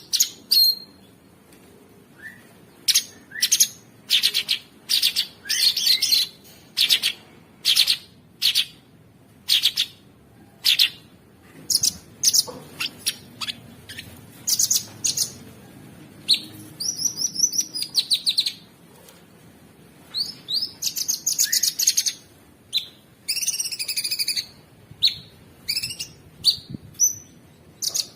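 Cucak sungkok (a bulbul) singing: a run of short, sharp, high chirps, about one or two a second, broken by longer warbling phrases around the middle and again later on.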